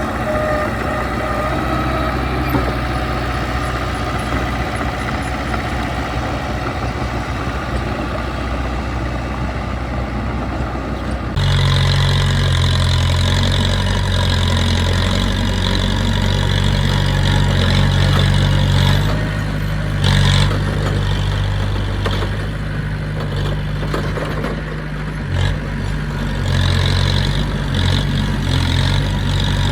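Heavy machinery's diesel engine running steadily. About eleven seconds in, the sound changes abruptly to a louder, deeper engine hum.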